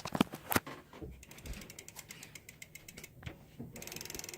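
BMX bike's rear hub ratcheting as the wheel freewheels, a fast, even run of clicks. A few knocks come first, and the clicking gets faster and louder a little before the end.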